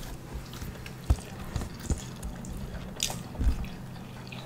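Close-miked eating sounds: wet chewing and lip smacking as rice and pork are eaten by hand, with scattered small clicks and a few soft thumps.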